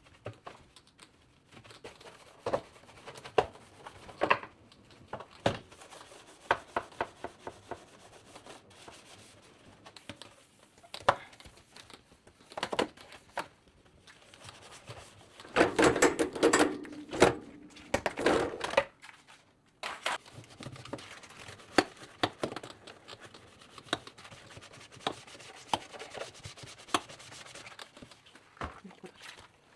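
Hands at household cleaning and tidying: rubbing and rustling with scattered light knocks and clicks, busiest and loudest for a few seconds around the middle.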